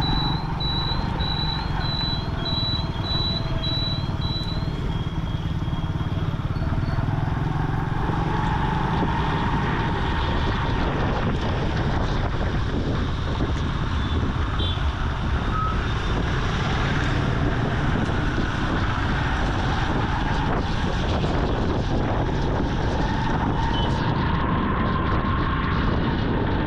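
Vintage Yamaha motorcycle being ridden, its engine note rising and falling with the throttle over steady road and wind noise. A run of short high-pitched beeps, about two a second, stops a few seconds in.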